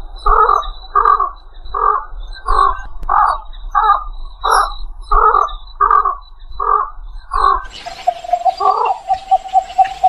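Egret calling: a steady series of short, harsh croaking calls, about two a second. Near the end the background changes and a faster run of short, clipped notes follows.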